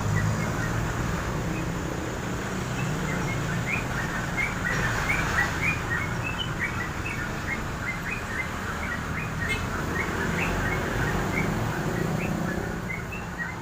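Songbirds chirping: a dense, continuous run of short, quick chirps, over a steady low background rumble.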